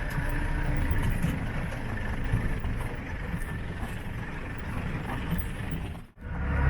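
Steady low rumbling noise, broken by a sudden short dropout about six seconds in.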